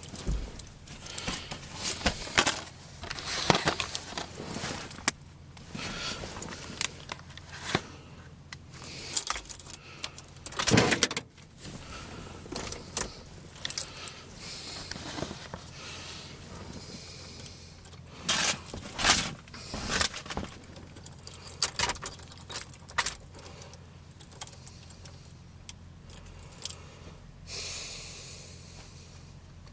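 Keys jangling, with irregular clicking and rustling handling noise coming in clusters over a faint steady low hum.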